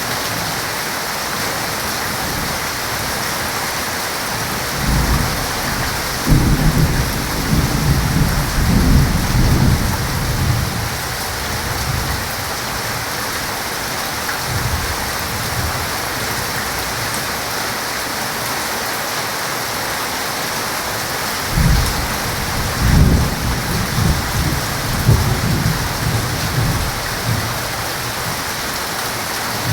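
Heavy rain falling steadily, with two long rolls of thunder: the first begins about five seconds in and breaks into a sharper crack a second later, the second comes a little past twenty seconds in, each rumbling for five or six seconds before fading back into the rain.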